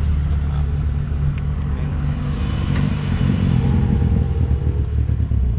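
Engine and exhaust rumble of cars rolling slowly past at close range, deep and steady, with a pitched engine note rising over it through the middle.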